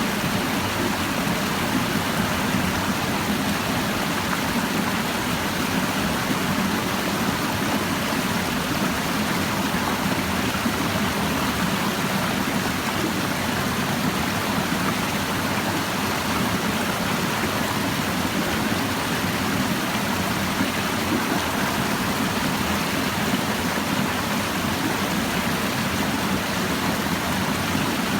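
Clear mountain stream babbling and rushing over rocks, a steady, even flow of water.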